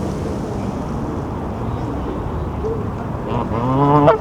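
Steady outdoor city background noise. Near the end comes a short call that rises in pitch and is the loudest sound, then cuts off sharply.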